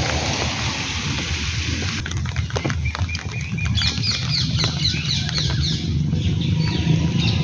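A bird calling in a rapid series of short, high, falling chirps, about three or four a second, starting a little past halfway, over a low steady engine hum. Steady rain hiss fills the first couple of seconds.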